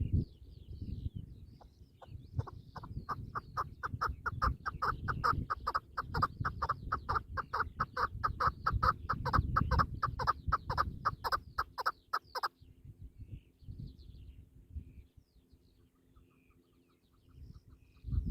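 A partridge calls a rapid run of clucking notes, about four a second, for around ten seconds, then stops abruptly. Low rumbling noise and faint high chirps from small birds sound underneath.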